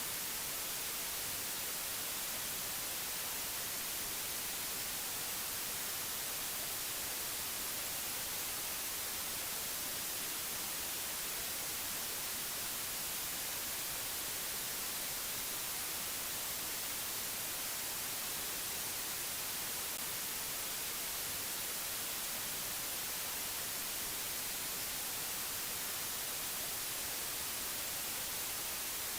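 Steady, unchanging hiss of white noise, strongest in the high frequencies.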